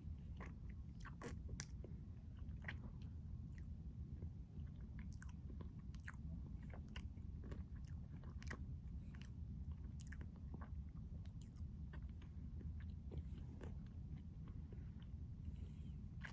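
Eating a Keto Pint Triple Chocolate Crunch Bar: irregular crisp crunches from biting and chewing, over a steady low hum.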